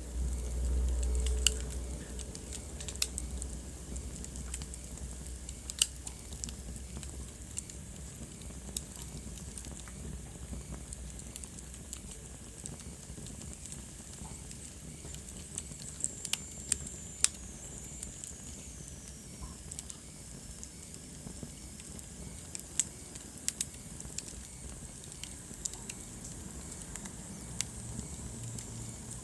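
Wood fire burning in a fireplace: irregular crackles and sharp pops over a steady low rumble. A faint high whistle drifts down in pitch around the middle.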